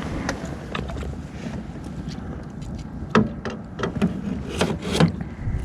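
Strong wind buffeting the microphone in a steady low rumble, with a few short knocks or clicks in the second half.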